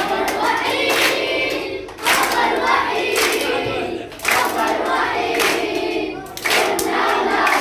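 A group of young children chanting loudly in unison, in phrases about two seconds long with short breaks between them, with hand claps.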